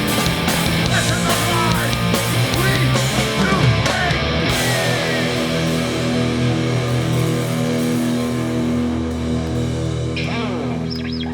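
Live hardcore punk band with distorted electric guitars, bass and drums ending a song: the drums stop about four and a half seconds in and the final chord is held, ringing and slowly fading, with a few sliding notes near the end.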